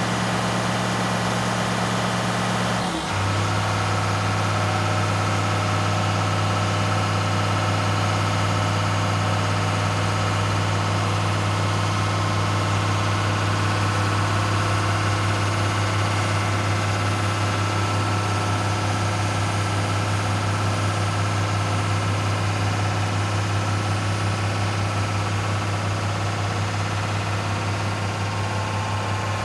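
Barber Greene BG260B asphalt paver's Cat 3116 inline-six diesel engine running steadily. About three seconds in its speed drops a step, and it then runs on evenly at the lower speed.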